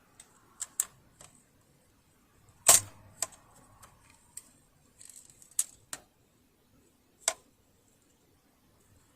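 Scattered sharp metallic clicks and taps as small parts and tools are handled on a partly disassembled sewing machine, with one louder knock about three seconds in and a brief light rattle a little later.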